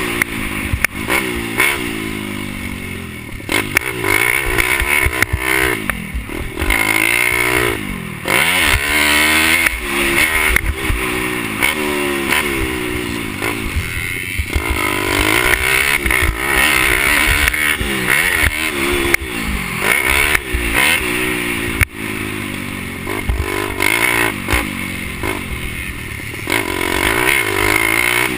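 Pit bike engine racing, its pitch rising and falling again and again as the throttle is opened and shut, with scattered knocks and clatter.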